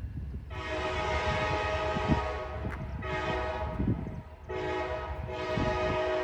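Locomotive air horn sounding the grade-crossing signal: two long blasts, a short one, then a final long blast that runs on near the end, over the low rumble of the approaching train.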